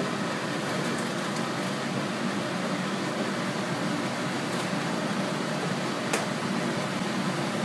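Steady, even kitchen hiss with a few faint clicks, as a pan of tomato sauce cooks on the stove.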